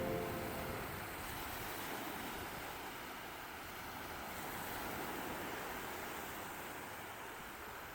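Steady rushing of strong wind and water in monsoon weather, swelling and easing slowly.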